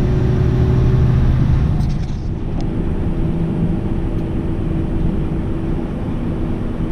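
Semi truck's diesel engine running inside the cab, a steady low drone whose note drops slightly and shifts in pitch about two seconds in.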